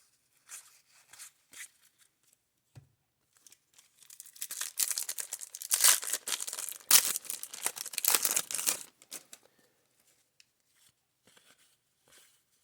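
Soft flicks of cardboard trading cards being handled, then about four seconds in a loud stretch of crackling and tearing of a thin wrapper that lasts about five seconds, typical of a card pack's wrapper being torn and crumpled.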